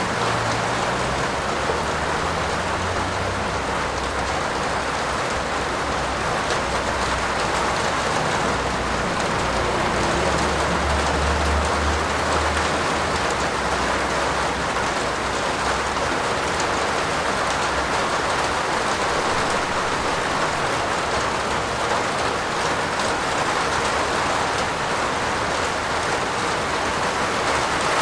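Steady rain falling on a roof, an even hiss of drops. A low rumble runs underneath for the first half and is strongest about ten to thirteen seconds in.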